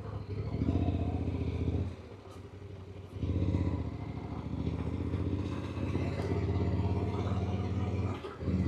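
Yamaha Ténéré motorcycle engine running as the bike rides along. It eases off about two seconds in and picks up again about a second later.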